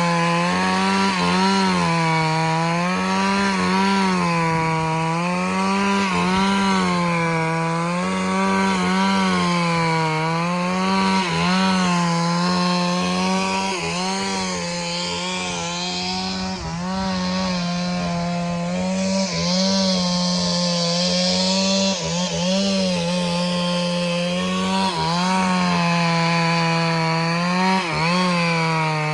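Chainsaw running under load, cutting through a large log. The engine's pitch sags and recovers every second or two as the chain bites into the wood.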